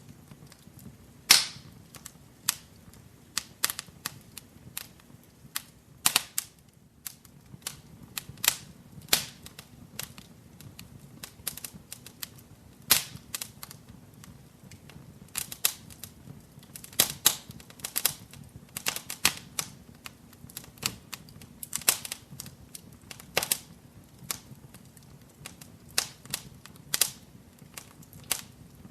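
Wood fire burning in a fireplace, crackling with irregular sharp pops and snaps, a few every second, over a faint low background of the flames.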